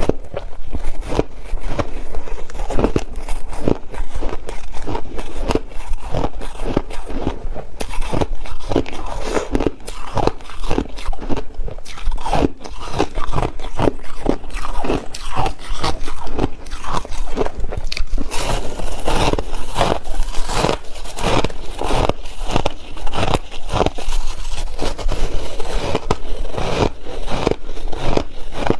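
Ice being bitten and chewed close to the microphone: a dense, irregular series of sharp crunches, several a second.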